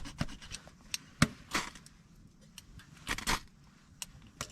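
A ferro-rod fire starter being struck: a few sharp metal clicks, then short scraping strokes about every second and a half, throwing sparks onto tinder that does not catch.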